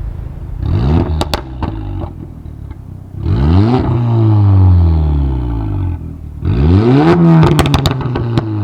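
Audi S3's turbocharged four-cylinder revved three times through an aftermarket valved exhaust, each rev climbing fast and dropping away slowly. Sharp pops and crackles follow the first and last revs.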